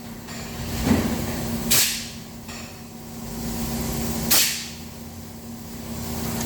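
2015 Honda Accord engine running steadily just after starting, following a no-crank, no-start fault traced to wiring, with loud short hissing bursts about every two and a half seconds.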